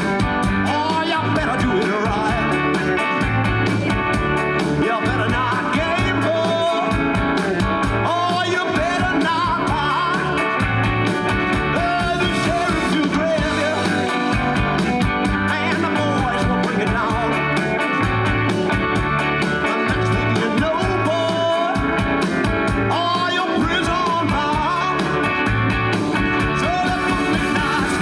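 Live rock band playing with a steady beat, with a voice singing over it.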